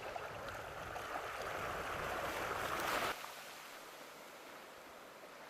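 Sea surf washing on a shore, swelling over the first three seconds, then dropping suddenly to a quieter wash.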